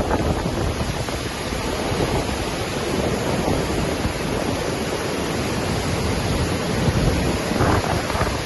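Waterfall crashing steadily: a dense, even roar of falling water, with a few louder low gusts near the end that sound like wind on the microphone.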